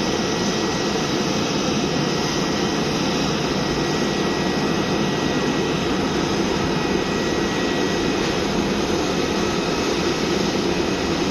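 Jet airliner engines running steadily: an even, unbroken rush with a faint high whine held over it.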